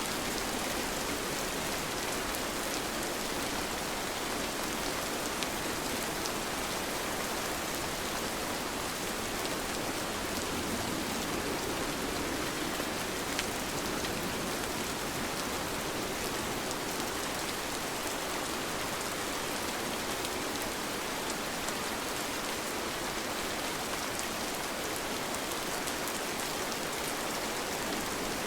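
Steady rain falling, with a constant hiss and scattered individual drops ticking on surfaces.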